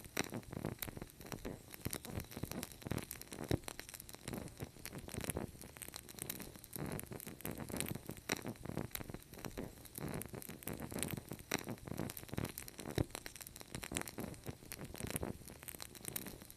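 Wood fire crackling: a dense, irregular run of sharp snaps and pops over a soft low rustle of burning.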